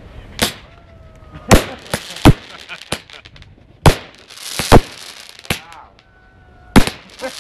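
Consumer fireworks cake firing its shots: a string of about eight sharp bangs, a stretch of crackling about halfway through, and a couple of short steady whistles between the shots.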